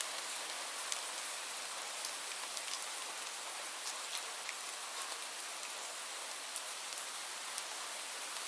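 Steady rain falling, an even hiss with scattered close drop ticks standing out now and then.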